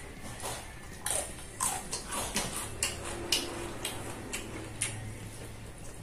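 Close-miked eating sounds while chewing rice and fu yung hai: irregular wet smacks and clicks from the mouth and fingers, about a dozen.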